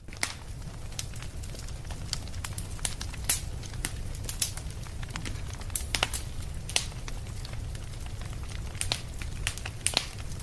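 Wood fire crackling in a fireplace, with sharp irregular pops and snaps, several of them loud, over a steady low rumble of the burning.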